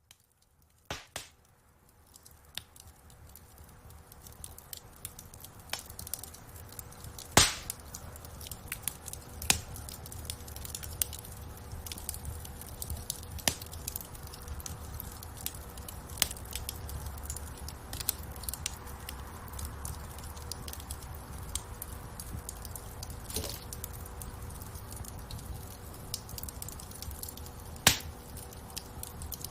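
Wood fire crackling in a fireplace: a continuous scatter of small snaps over a low rumble of flames, with a few loud sharp pops, about seven seconds in, again two seconds later, and near the end. The fire sound fades in from silence over the first few seconds.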